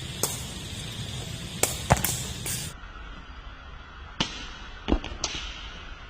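A sepak takraw ball being kicked and struck during practice: about eight sharp smacks at irregular intervals over steady background noise.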